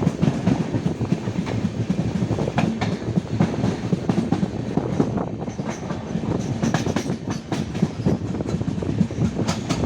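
Passenger train running at speed, heard from on board: a steady low rumble with the wheels clattering over the rail joints in many sharp clicks.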